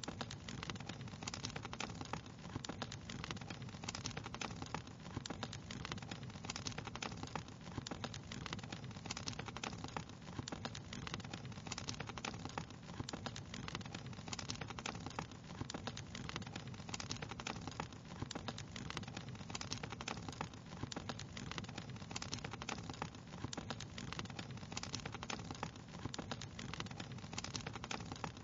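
Wood fire crackling steadily, with a dense run of small pops and snaps over a soft low rumble.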